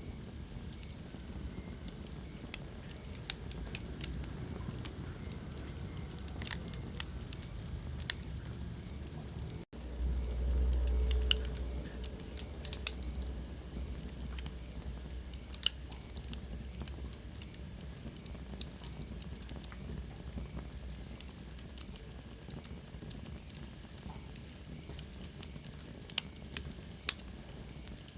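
Wood fire burning in a fireplace: a steady low rumble of flames with sharp, irregular crackles and pops. The sound cuts out for an instant about ten seconds in, and a louder low rumble follows for a second or two.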